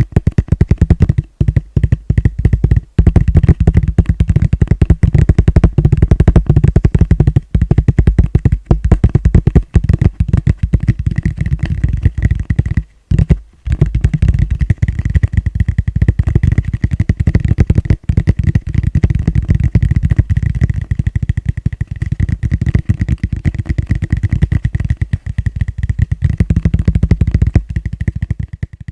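Fingertips tapping fast on a plastic bowl, a dense stream of rapid taps with a faint ring from the bowl, broken by a few brief pauses and stopping suddenly at the end.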